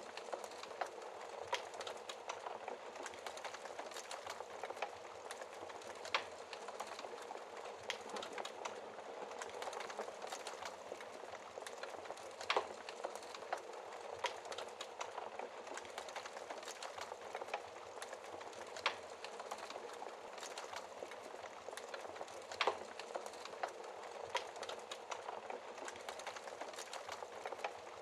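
Wood fire crackling in a fireplace: a steady soft crackle full of small clicks, with a few sharper, louder pops scattered through it.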